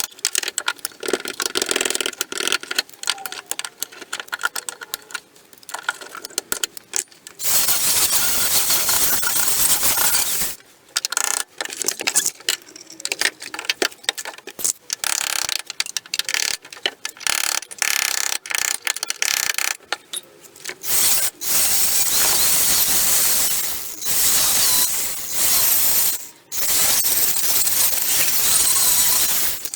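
Metalworking on a car's rusted floor panel and spot welds: rapid irregular metal clicking and tapping, broken several times by stretches of loud, steady, harsh power-tool noise lasting a few seconds each.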